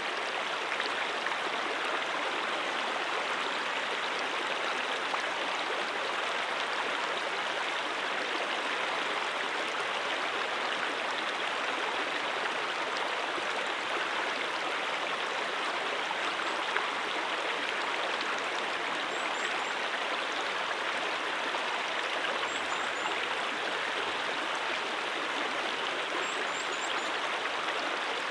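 A brook running steadily over rocks in a valley: an even, continuous burble of flowing water.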